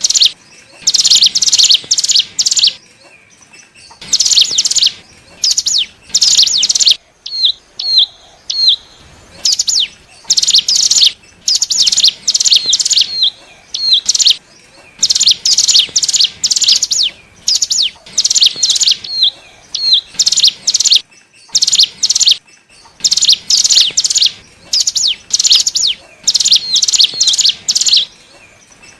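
Cigun (ciblek gunung), a prinia, singing: loud bursts of rapid high chirps, each about a second long, repeated with short pauses, with a few short upturned call notes between some bursts. It is a lure recording of the cigun's song, played to draw in wild cigun.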